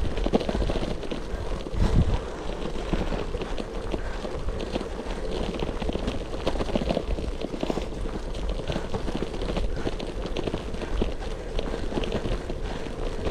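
Gravel bike rolling over a rough forest road, its tyres crunching and the bike rattling without a break, with one harder jolt about two seconds in. There is low rumble underneath, as from wind on the microphone.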